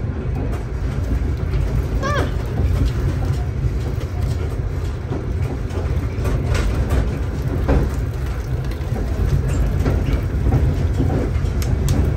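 Steady low rumble of a moving sleeper train heard from inside the carriage, with scattered clicks and knocks and a short sliding squeak about two seconds in.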